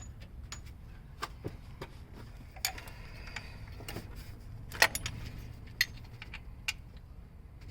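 Scattered light metallic clicks and taps of bolts and hand tools being handled while bolts are put back into a transmission case, the sharpest about five seconds in, over a low steady hum.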